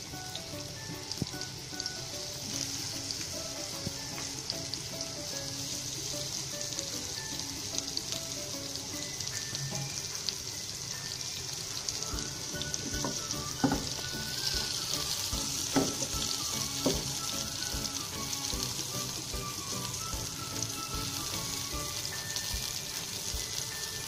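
Spice-coated eggplant slices shallow-frying in oil in a nonstick pan: a steady hissing sizzle, with a few sharp clicks around the middle. A soft melody of background music plays underneath.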